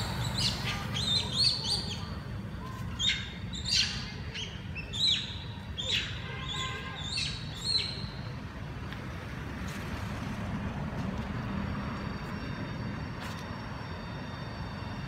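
Birds chirping in a quick series of short, high calls through the first half, then falling quiet. Under them runs a steady low rumble of road traffic.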